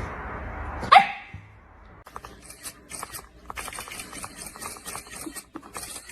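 A dog gives one loud, short bark about a second in, falling sharply in pitch, followed by a few seconds of irregular scratchy rustling.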